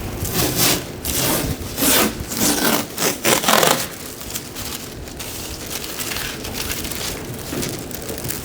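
Irregular rubbing and scraping strokes, several loud ones close together in the first few seconds, then quieter, steadier scuffing.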